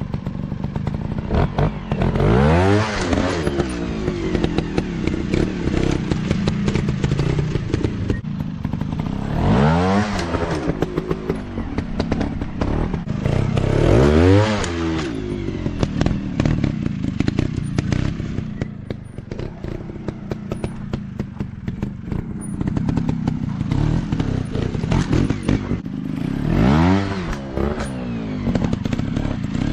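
Off-road dirt bike engines running, with the revs climbing steeply in bursts about four times over a steady engine drone.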